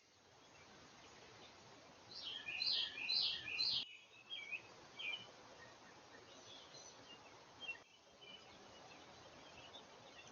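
Songbirds calling outdoors: a quick, loud phrase of several high notes about two seconds in, then scattered fainter chirps over a steady background hiss.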